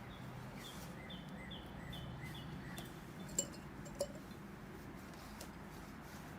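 A bird's call repeated as a quick series of about eight short high notes, over a low steady hum. Two sharp clicks follow shortly after the calls stop.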